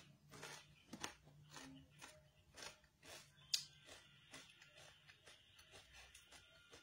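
Close-miked chewing of crispy fried chicken skin: a run of soft crunches, with one sharper crunch about three and a half seconds in, growing fainter after that.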